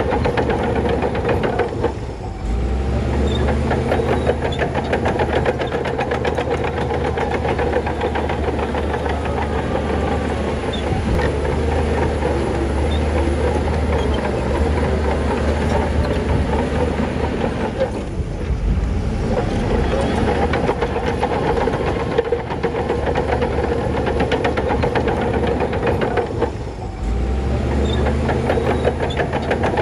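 Shantui bulldozer's diesel engine running hard with the clatter of working machinery, the engine note dipping and changing briefly three times.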